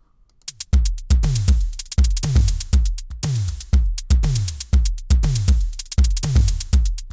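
Programmed drum-machine beat playing back from Soundtrap, starting under a second in. Deep kick drums drop quickly in pitch on each hit, over a fast run of high percussion ticks whose loudness varies to give a syncopated feel.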